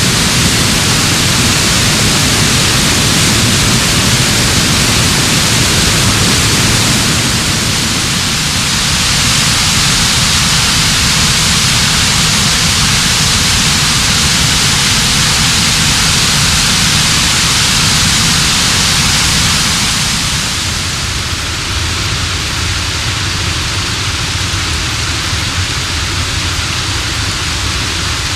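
Minaret Falls, a mountain creek cascading down steep rocks, rushing loudly and steadily. Its tone shifts slightly about eight seconds in and again about twenty seconds in.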